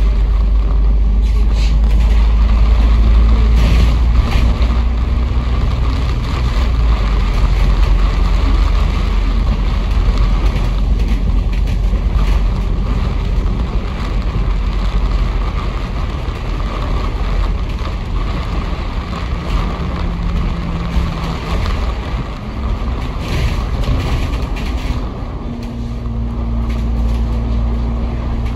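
Bus engine and drivetrain running under way, heard from inside the passenger cabin: a deep continuous rumble with a steady engine hum that shifts in pitch through the middle, over a constant rushing of road and air noise.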